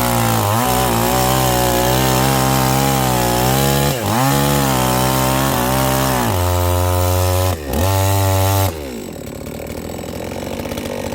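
Two-stroke chainsaw running at full throttle through a log, its pitch sagging and recovering several times as the chain bites. It races higher once the bar comes free, then drops to idle near the end.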